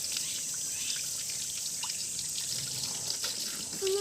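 Water trickling and splashing with scattered small drips, as a car is washed with water.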